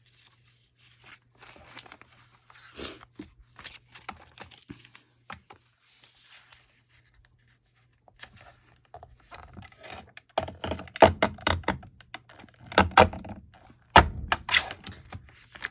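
Paper cutter being forced through a thick stack of folded paper, which it struggles to cut. Light paper rustling and clicks at first, then a run of heavy clunks and crunches in the last few seconds, the loudest near the end.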